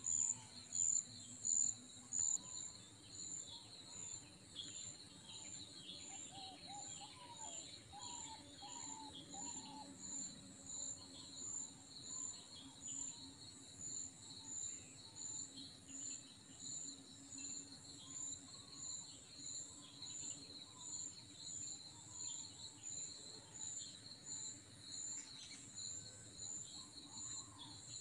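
Insects calling: a high-pitched, regularly pulsing chorus over a steady trill, with scattered small bird chirps.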